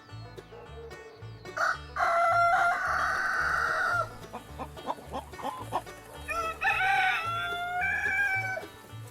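A rooster crowing twice, one long crow about two seconds in and another near the end, with short hen clucks in between, over background music with a steady bass beat.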